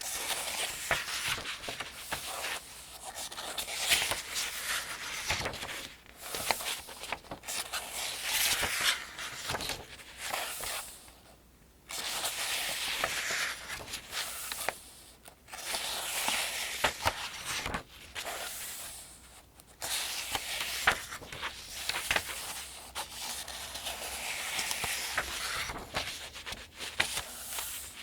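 Pages of a paperback almanac being turned one after another: paper rustling and crinkling in stretches of a few seconds, with sharp crackles, and brief pauses between turns, twice going nearly quiet.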